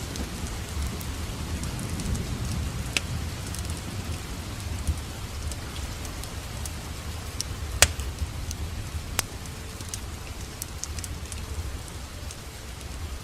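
Fireplace fire crackling, with scattered sharp pops, the loudest two about eight and nine seconds in, over a steady rush of rain.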